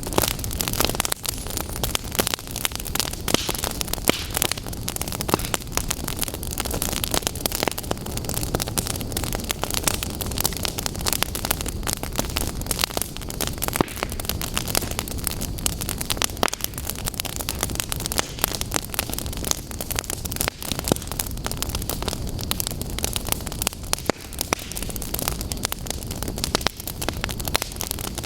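Fire crackling, with a dense run of sharp pops and snaps over a steady hiss.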